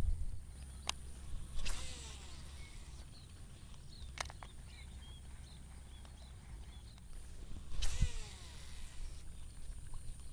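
Two casts with a baitcasting reel, about six seconds apart: each is a quick whoosh and a spool whirr whose pitch falls as the spool slows. A few sharp single clicks come between them, over low wind rumble on the microphone.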